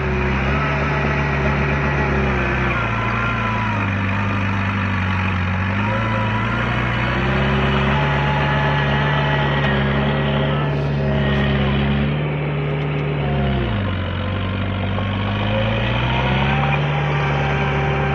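Heavy earthmoving machine's diesel engine running steadily. Its pitch sags and climbs back twice, more deeply the second time, about three-quarters of the way through, as the engine is loaded and recovers.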